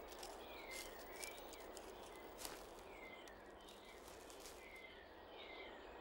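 Faint forest ambience: a soft hiss with a small bird giving short, high, falling chirps about once a second, and a few light clicks and rustles.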